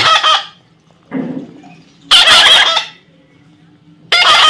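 A parrot giving loud, harsh squawking calls, three of them about two seconds apart, with a softer, lower call about a second in.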